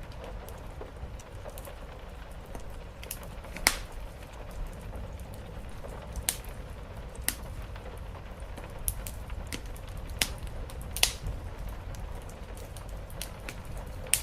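Wood fire crackling, with sharp pops at irregular intervals, the loudest about four seconds in and again near eleven seconds, over a steady hiss and low rumble of rain falling on the roof.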